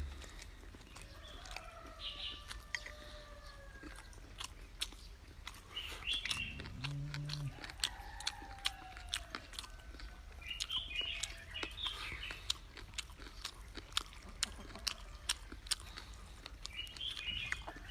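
A person chewing crunchy food with many sharp crunching clicks. Birds chirp now and then in the background, and a brief low hum comes about seven seconds in.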